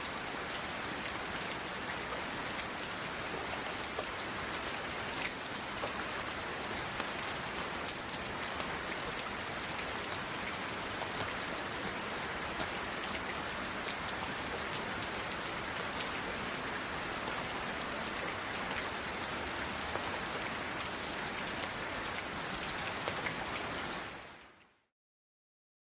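Recording of steady rain falling: an even hiss sprinkled with small drop ticks, fading out near the end.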